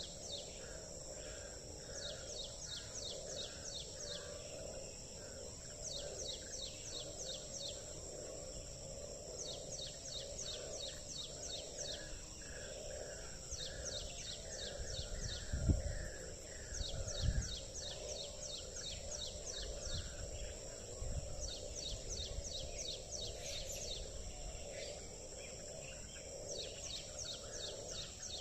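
Outdoor chorus of frogs and insects: a steady high insect drone, repeated runs of fast ticking trills, and calls pulsing about twice a second over a low croaking chorus. About halfway through, two brief low rumbles of wind hit the microphone.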